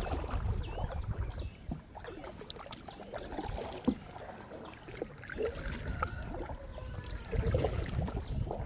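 Kayak paddling on a river: scattered splashes and drips of water from the paddle. Wind rumbles on the microphone at the start and again near the end.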